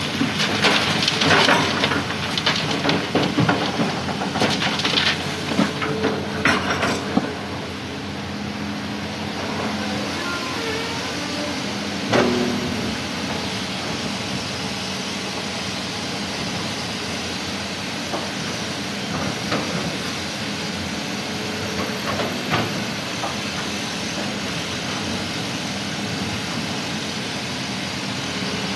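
Coral rock tipped from an excavator bucket into a dump truck's steel bed, a dense clatter of stones for the first several seconds. After that the heavy machine engines run steadily, with an occasional single knock.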